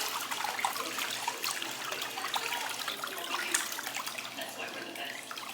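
Water running and splashing into a pedicure foot-spa basin, with scattered light clicks and clinks.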